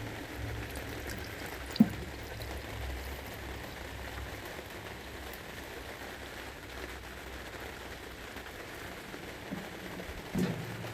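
Engine oil trickling from the Ariens snowblower's drain into a catch can, a steady pattering trickle as the break-in oil slows near the end of draining. A single knock about two seconds in.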